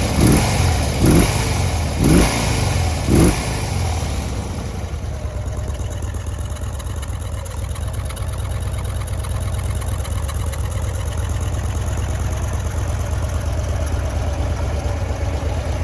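2008 Harley-Davidson Road King Classic's Twin Cam 96 V-twin engine blipped four times in quick succession, each rev rising and dropping back, then settling into a steady idle through its exhaust.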